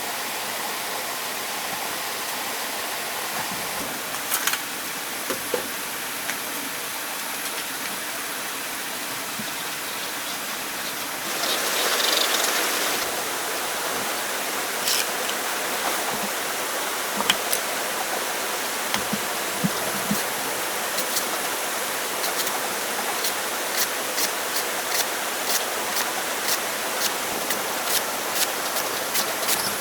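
Steady rush of flowing water. Over it, sharp knocks come about two a second through the last third.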